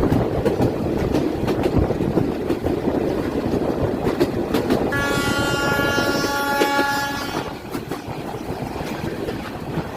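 A train running on the rails, its wheels clattering over the rail joints. About halfway through, the locomotive's horn sounds one steady blast lasting about two and a half seconds.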